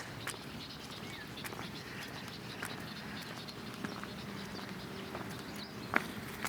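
Quiet outdoor ambience: a faint steady hiss with scattered soft ticks, a faint low hum coming in about halfway through, and one sharper click near the end.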